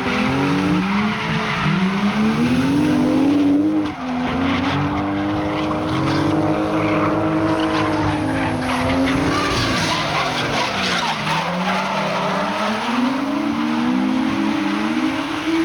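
Drift car's engine revving up and down hard while its tyres squeal through a slide. The revs fall away briefly about four seconds in and drop low again around eleven seconds before climbing back.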